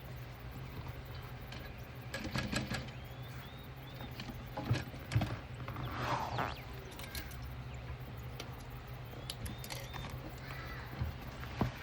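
Scattered clicks, taps and a brief rustle from handling fabric and sewing clips at the workbench, over a steady low hum, with a few faint bird chirps. The sewing machine is not stitching.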